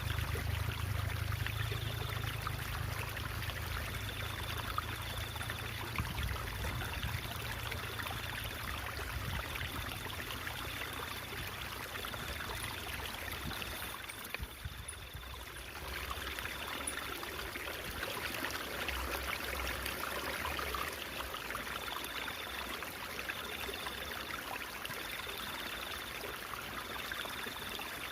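Water in a small stream babbling and trickling steadily, with a short quieter lull about halfway through.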